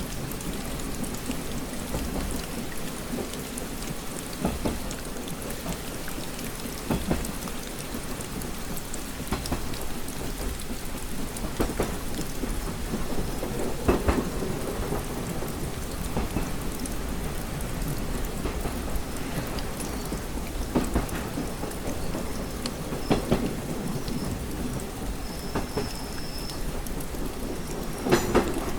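Rain pattering on a train compartment window, with scattered louder drops tapping the glass over a steady low rumble.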